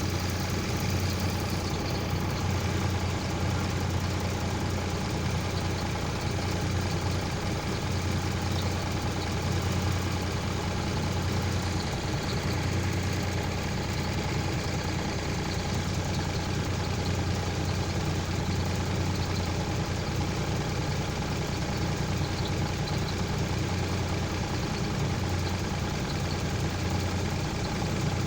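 Heavy vehicle engine idling steadily with a low, even hum that holds the same level throughout.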